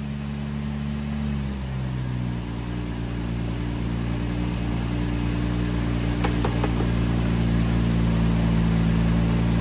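Car engine running, its pitch stepping up about two seconds in and then held steady while it grows gradually louder, with a few light clicks around six seconds in. It runs and drives.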